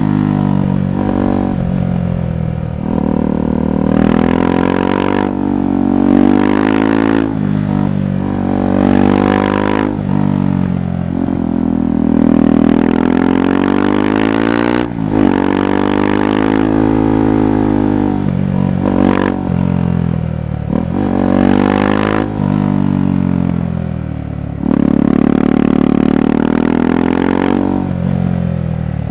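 KTM 390 Adventure's single-cylinder engine pulling through the gears. The exhaust note rises in pitch, then drops abruptly at each gear change or throttle close, many times over, with one longer swell that rises and falls about halfway through.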